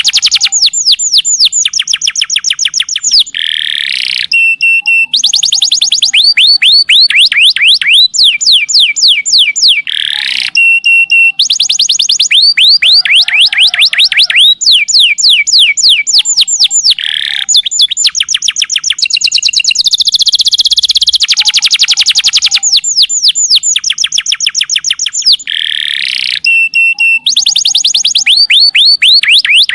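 Domestic canary singing a long, loud song of very fast rolling trills, each trill a run of rapid downward-sweeping whistled notes, with short buzzy notes between phrases. The phrases repeat over and over without pause.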